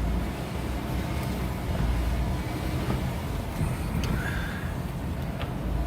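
Car driving with the windows open: a steady low rumble of engine and road noise, with air buffeting through the cabin.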